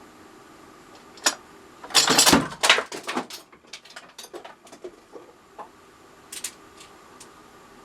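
Thin plywood tray pieces being handled and set down on a workbench: a light knock about a second in, then a louder run of clattering and scraping knocks around two to three seconds in, then scattered small clicks.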